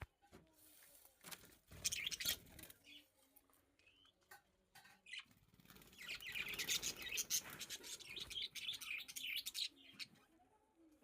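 Budgerigars chirping and chattering faintly, in scattered bursts that are busiest from about six to ten seconds in.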